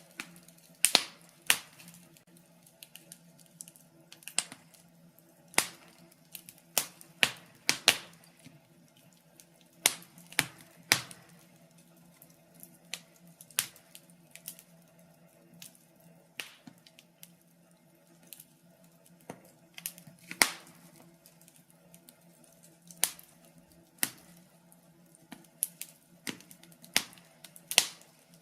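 Wood fire crackling in a fireplace: irregular sharp pops and snaps from the burning logs, some much louder than others, over a faint steady hum.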